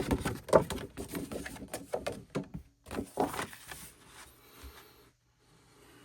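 Paper and card rustling and crackling as a folded paper board game is handled and opened out. There are two stretches of dense crackles in the first three and a half seconds, and the sound then fades to soft rustles.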